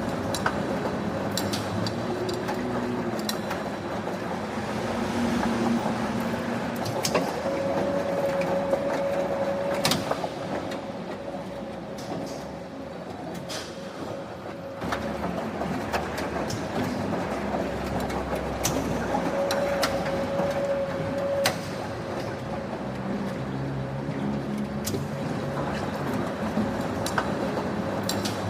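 Factory machinery running with a steady mechanical hum and a held tone that swells and fades, broken by scattered sharp metallic clanks and knocks.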